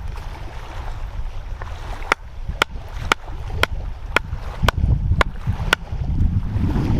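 Eight sharp, ringing knocks, about two a second, starting about two seconds in, over a steady low rumble of wind on the microphone.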